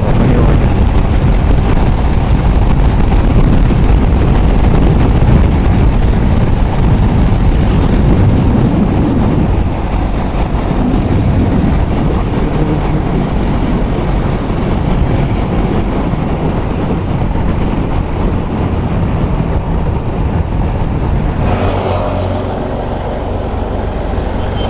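Motorcycle riding at road speed: a steady engine note under heavy wind rumble on the microphone, easing slightly about ten seconds in.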